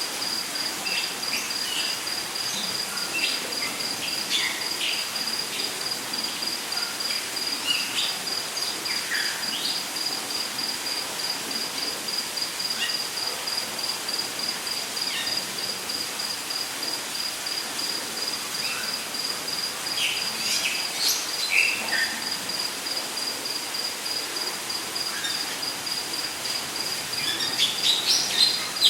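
Rainforest ambience: an insect trills steadily on one high pulsing note, while birds give scattered short chirps and calls, with a cluster of calls near the end.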